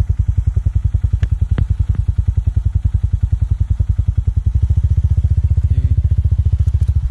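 Motorcycle engine running as the bike is ridden, with a steady low pulsing. There are two short clicks about a second and a half in, and the engine gets fuller and louder in the second half.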